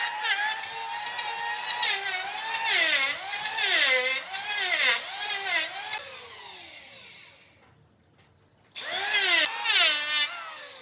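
Handheld electric power tool working wood, its motor whine dipping and recovering in pitch over and over as it bites into the wood and frees. About six seconds in it winds down to a stop, then starts again suddenly near nine seconds and winds down once more near the end.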